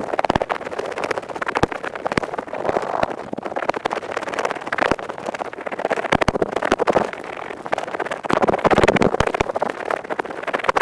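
Ear pick scraping rapidly inside an ear, close to the microphone: dense fast scratching strokes that swell and ease every couple of seconds.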